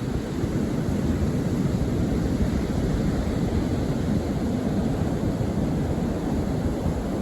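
Steady low rushing of wind buffeting the microphone outdoors, an even roar without distinct events.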